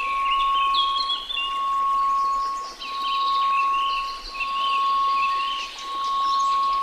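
A steady 1098 Hz pure tone that swells and fades about every second and a half, over a soft hiss. Over it run high chirping and tinkling chime-like notes.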